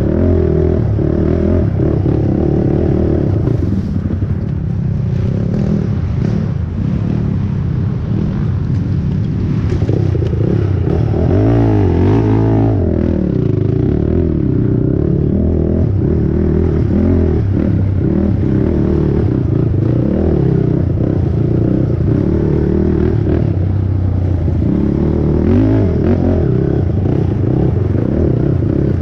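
A 450-class race quad's single-cylinder four-stroke engine, revving up and falling back again and again under hard riding, with clatter from the machine over rough ground.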